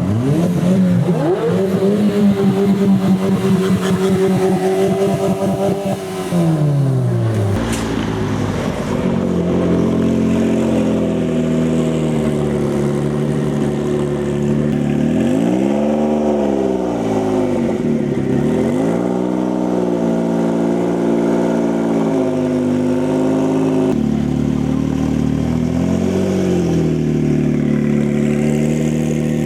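A supercar engine running loudly. It revs high for the first few seconds and drops in pitch about six seconds in. It then settles to a steady idle, with quick throttle blips that rise and fall in pitch around the middle and once more near the end.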